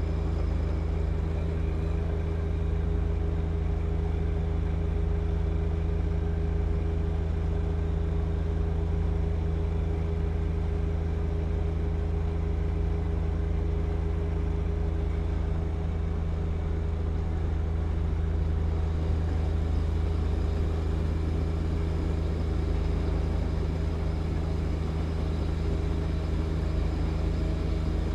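John Deere 1025R compact tractor's three-cylinder diesel running steadily at constant speed, a deep even hum with no revving changes.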